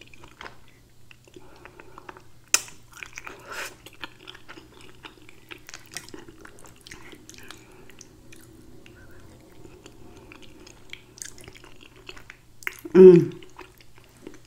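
Close-miked wet chewing of chicken fettuccine alfredo, with many small mouth clicks and smacks. Near the end there is a short, loud vocal sound that falls in pitch.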